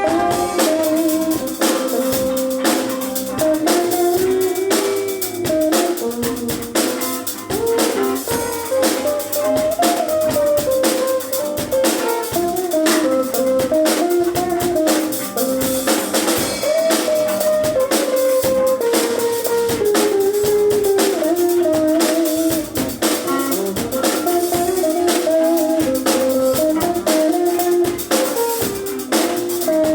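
Instrumental band music: drums keep a steady, busy beat under a melody line that rises and falls.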